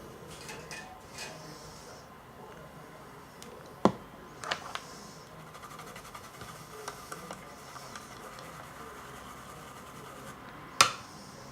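Small tools being handled at an electronics repair bench: light scratching and tapping, with two sharp clicks, one about four seconds in and one near the end, over a faint steady whine.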